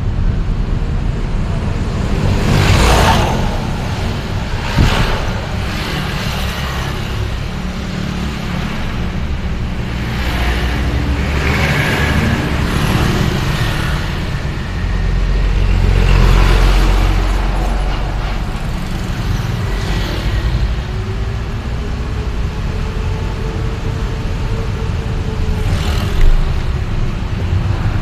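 Street traffic: a steady low rumble with several vehicles passing by, each a short swell of noise, and a couple of sharp knocks.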